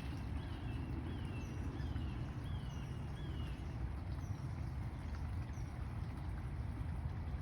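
A bird calling over and over, short falling notes about twice a second that stop a few seconds in, over a steady low rumble.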